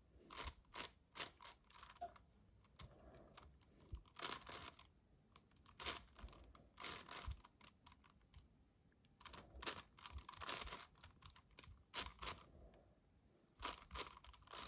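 Faint plastic clicking and clattering of a magnetic 7x7 speed cube being turned, in quick irregular bunches of layer turns with short pauses between.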